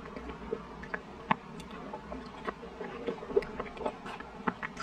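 Close-miked wet chewing of a mouthful of soft, thick chocolate: irregular sticky mouth smacks and clicks, a few a second, the sharpest about a second in and again past the three-second mark.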